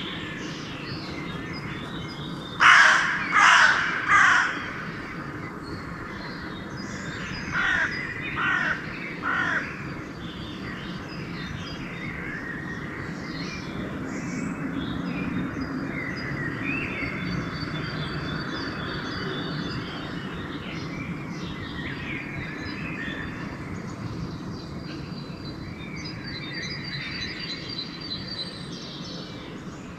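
A crow cawing three times in quick succession, then three more fainter caws a few seconds later, over a background chorus of smaller songbirds and a faint low rumble.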